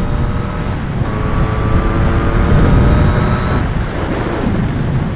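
Yamaha MT-09's inline-three engine through an Akrapovic carbon full exhaust, running under way, with wind noise on the microphone. The engine note climbs from about a second in, is loudest around three seconds, and eases off about a second later.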